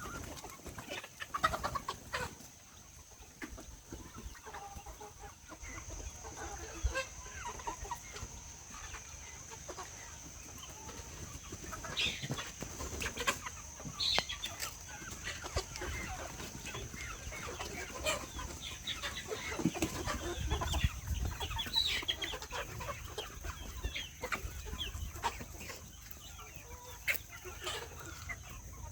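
Chickens clucking with scattered short calls and clicks, over a steady thin high-pitched tone in the background.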